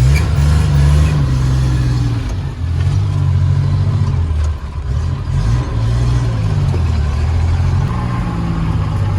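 Motor vehicle engine running under way, loud and close, its pitch rising and falling as the throttle changes.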